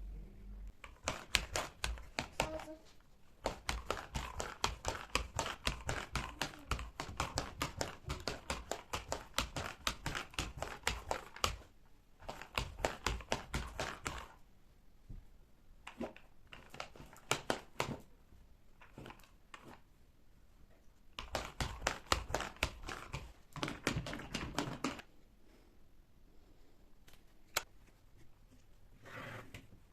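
Rapid runs of small clicks and taps from hands-on household cleaning, coming in bursts of several seconds with quieter pauses between.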